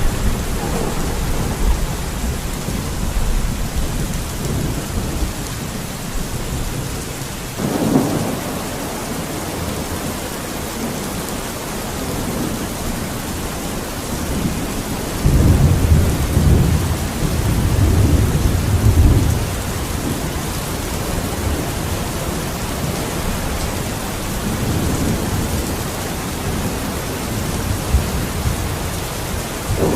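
Steady rain falling, with a sudden low rumble about eight seconds in and a longer low rumbling swell from about fifteen to nineteen seconds.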